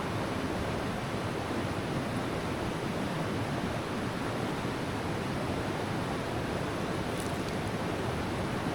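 River water rushing: a steady, even noise that holds level throughout.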